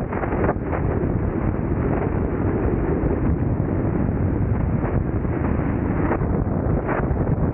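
Strong wind buffeting the microphone of a camera on a moving car, a loud, steady low rumble with occasional gusts.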